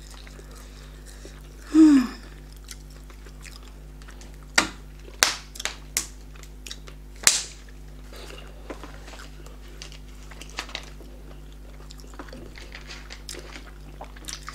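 Eating sounds of fish and fufu eaten by hand: close-miked chewing with a scatter of sharp mouth smacks and clicks, most of them between about four and eight seconds in. A brief hummed vocal sound comes about two seconds in, and a steady low hum runs underneath.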